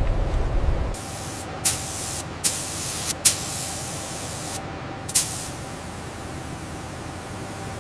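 A hissing spray of air or liquid from a nozzle, starting about a second in after a low rumble. It runs with several short, sharp louder spurts and a couple of brief breaks.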